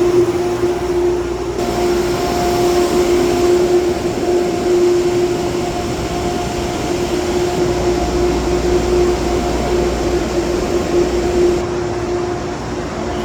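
Loud, steady mechanical drone with a constant pitched hum, from a passenger train standing at an underground station platform.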